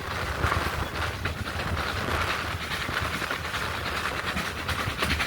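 Steam train hauled by ex-GWR 4200-class 2-8-0 tank engine 4247 running along the line, a steady rumble and rattle of the train with wheels clattering on the rails.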